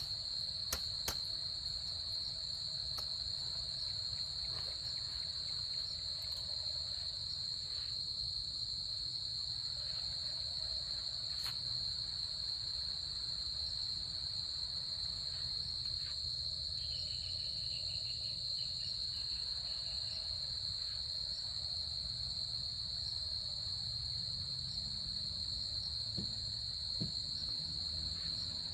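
Chorus of insects, such as crickets, trilling continuously at one high pitch, steady and without a break.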